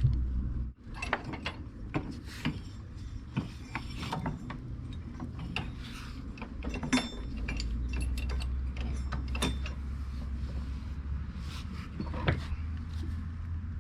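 Irregular metallic clicks and knocks of hand tools and steel parts being handled while a mower deck is taken apart, over a steady low hum.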